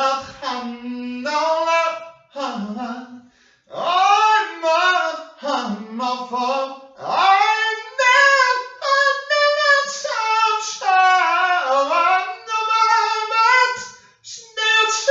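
A single high voice singing unaccompanied, in drawn-out phrases whose pitch slides up and down, with short breaks about two and three and a half seconds in.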